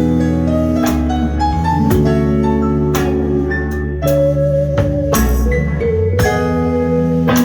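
Live jazz band playing an instrumental passage: held chords and melody notes over a bass line, with drum and cymbal strikes.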